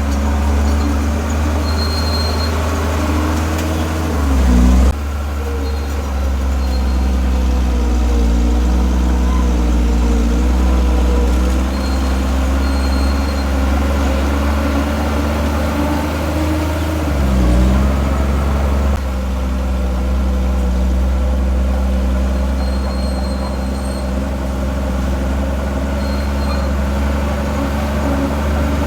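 Heavy diesel engine of earthmoving machinery running steadily, its pitch dipping briefly twice, about four seconds in and again about seventeen seconds in.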